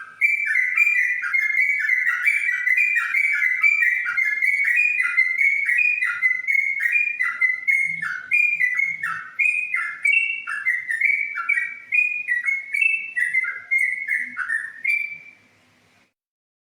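Yellow-vented bulbul (trucukan) singing a fast, unbroken run of whistled notes in the rolling 'ropel' style. The song stops near the end.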